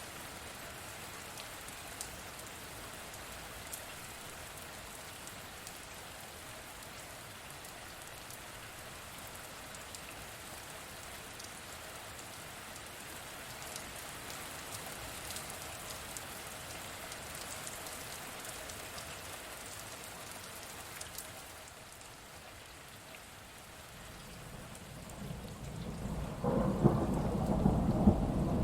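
Steady rain falling, with scattered sharp drop taps. About 25 seconds in, a low thunder rumble builds and becomes the loudest sound near the end.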